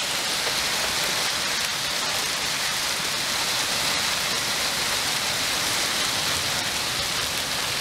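Steady rain falling on surfaces: an even, continuous hiss.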